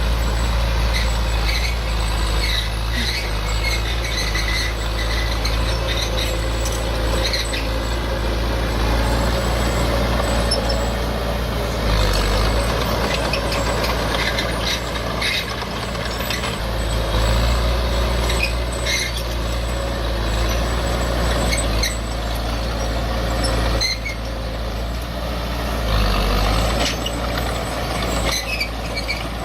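Diesel earthmoving machinery running steadily under load, with scattered clanks and knocks throughout.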